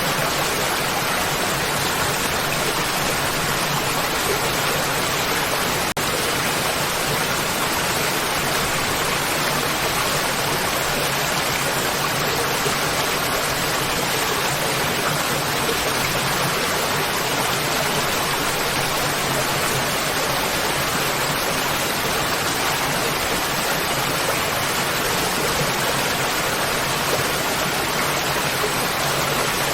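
Waterfall, water falling and splashing into a pool in a steady, even rush without pause.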